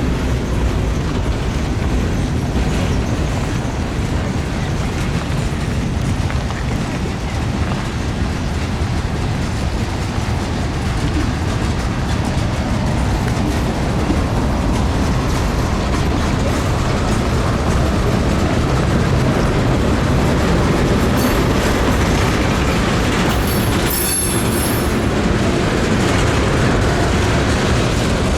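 Freight cars of a CSX manifest train rolling past: a steady rumble and clatter of steel wheels on the rails, with a brief high squeal near the end.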